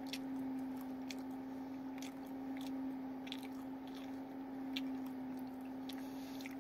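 A person eating sauce-covered chicken wings: chewing with scattered wet mouth clicks and smacks, and licking sauce off the fingers. A steady low hum runs underneath.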